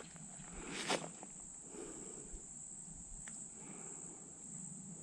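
Steady high-pitched insect chorus. A single loud footstep crunches in dry leaf litter about a second in, with fainter rustles of movement after it.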